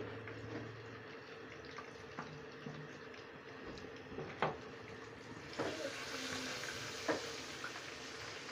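Garlic-ginger paste frying in hot oil with browned onions in a wok, a steady sizzle that grows louder about halfway through, with a few sharp taps of a spatula against the pan or bowl.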